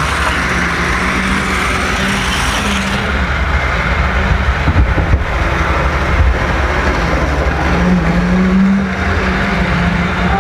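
Model train running along the track, picked up close by a camera riding on a flatcar behind the engine: a steady rumble of wheels on the rails with a faint wavering hum from the locomotive's motor.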